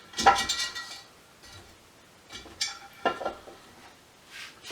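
Small metal parts clinking and rattling as they are handled and dropped, in short bursts: a loud cluster in the first second, more about two and a half to three and a half seconds in, and a single clink near the end.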